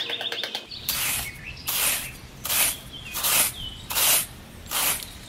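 A small metal hand trowel scraping across fine sand in repeated smoothing strokes, each a short hiss, about six strokes at a steady pace of a little under one a second.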